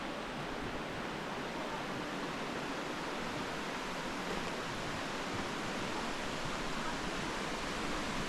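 Mountain stream rushing through a gorge, a steady even roar of falling water.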